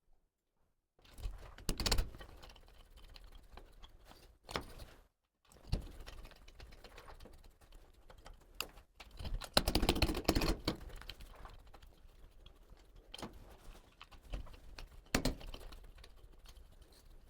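Carpentry work: irregular knocks and taps with rustling and handling noise, and a denser clattering stretch about ten seconds in.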